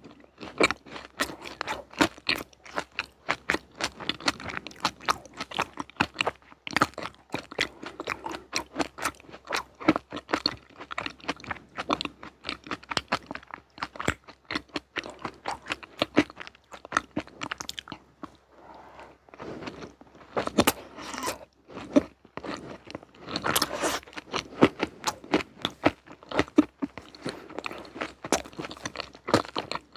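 Close-miked crunching and chewing of crunchy sweets, a rapid run of crisp crackles that eases briefly past the middle before picking up again.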